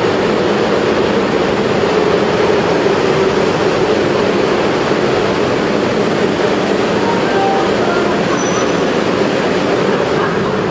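Electric passenger train rolling along the platform track: a steady, even noise of wheels on rails.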